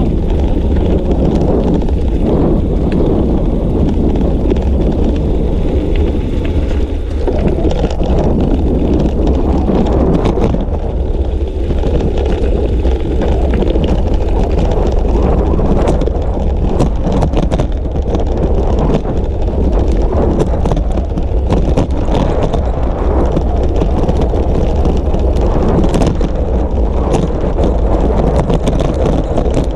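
Wind buffeting a GoPro's microphone while riding a bicycle: a steady, loud low rumble with scattered clicks and rattles.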